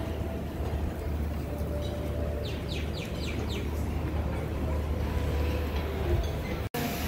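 A bird chirping a quick run of about six short falling notes, over a steady low outdoor rumble. The sound drops out for an instant near the end.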